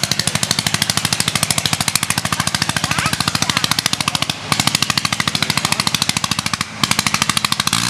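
Nine-cylinder Gnome Monosoupape rotary engine of a Sopwith Camel running unmuffled, a rapid, even crackle of sharp exhaust pulses. The firing dips twice, about four and a half seconds in and near the end; this engine has no throttle, so its speed is held back by cutting the ignition.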